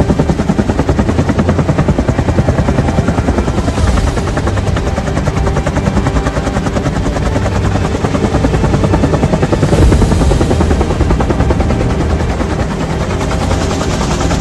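Bell UH-1 Huey helicopter in flight, its two-bladed main rotor beating in a rapid, even pulse.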